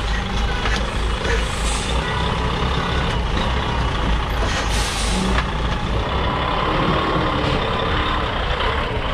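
Container truck's diesel engine running at low speed while the rig maneuvers, with a short burst of air hiss about five seconds in.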